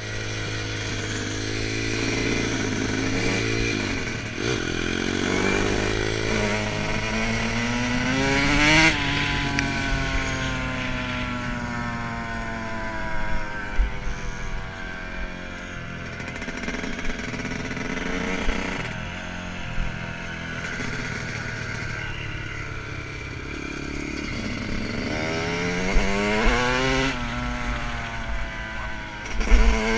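Dirt bike engine being ridden, its pitch rising and falling as it revs. It climbs to a peak about a third of the way in, eases off slowly, then climbs again near the end.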